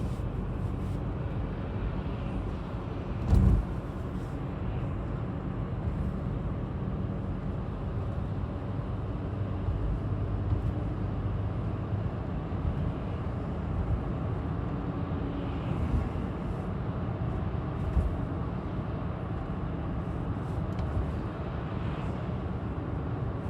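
Steady low rumble with one short thump about three seconds in.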